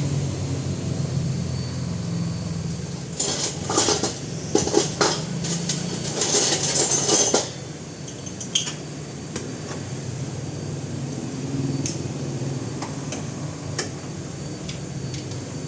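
Metal tools and parts clinking and rattling, in a quick cluster of knocks from about three to seven seconds in, then a few scattered clinks, over a steady low hum.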